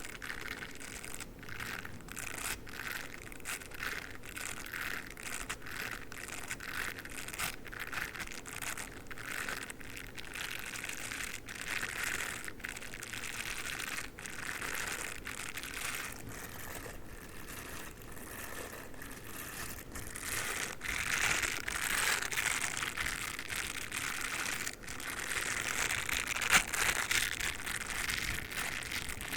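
Dog toothbrush brushed and scratched in quick, rapid strokes, a dense crackling rustle that gets a little louder in the last third.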